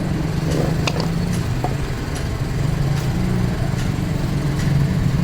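Workshop machinery running with a steady, low droning hum, with a few faint clicks over it.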